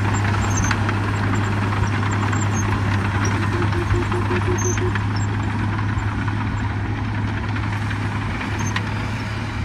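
Heavy diesel earthmoving machinery running steadily under load, a deep constant engine drone with rattling noise over it.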